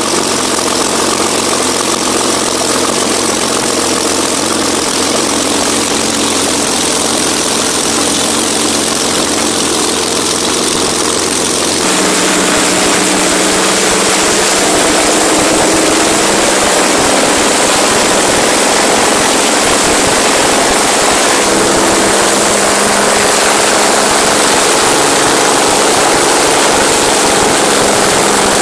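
Rolls-Royce Meteor V-12 tank engine running loudly and steadily. About twelve seconds in the sound changes: the deep low hum drops away and it gets a little louder.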